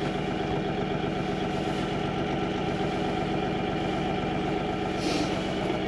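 Farm tractor's diesel engine running steadily at a constant speed.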